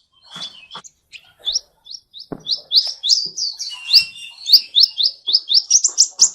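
Gouldian finches chirping: runs of short, high, rising chirps several a second, thinning out briefly about a second in and quickening near the end. A few soft knocks come in between, loudest about two seconds in.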